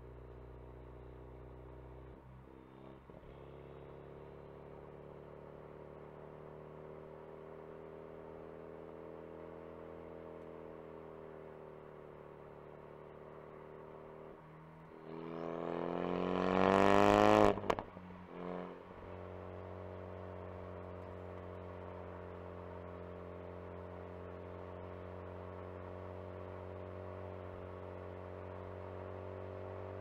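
Ford Focus RS engine heard from inside the cabin, running steadily under way. About halfway through it revs hard, rising quickly in pitch and getting much louder for a couple of seconds, then drops off suddenly at a gear change and settles back to a steady run.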